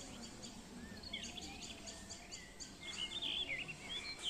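Small birds calling: a quick run of short, high chirps, then a burst of warbling whistles near the end, over faint outdoor background noise.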